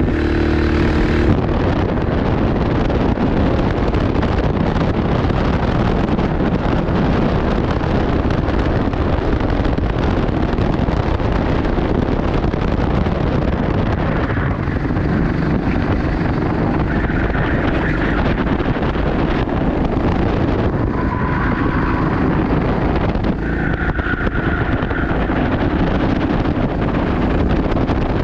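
Go-kart engine running continuously under steady load, mixed with heavy wind buffeting on the microphone.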